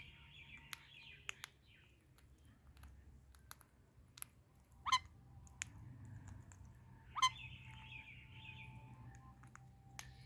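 Pet parrots calling: soft chattering at the start and again later, with two loud, sharp calls about five and seven seconds in, and a few sharp clicks between.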